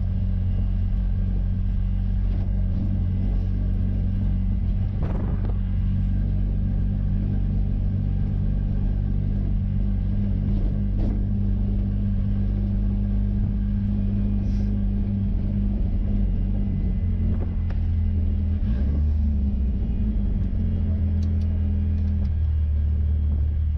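Ford 2.3L turbo four-cylinder engine of the 1963 Volvo Amazon running steadily at low revs, with its pitch shifting briefly about 17 seconds in.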